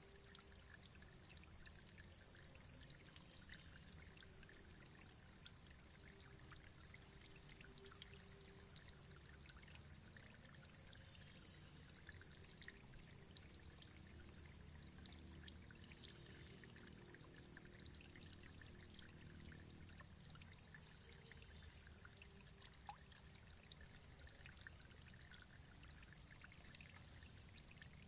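Faint running water, a steady trickle and splash with many small droplet ticks, unchanging throughout. A thin steady high hiss sits above it.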